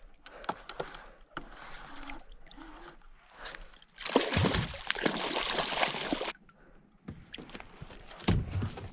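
Water sloshing and splashing against a kayak as a hooked lake trout is brought up to the surface, with one loud stretch of splashing lasting about two seconds near the middle. Small knocks and clicks run throughout.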